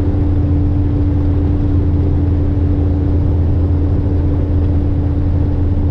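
Cummins N14 diesel engine of a dump truck running steadily under way at cruising speed: an even, unchanging low drone with a steady hum above it.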